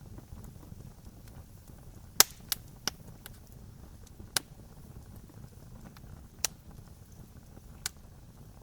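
Campfire crackling: a low steady rumble with sharp pops of burning wood scattered through, about six, the loudest a little over two seconds in.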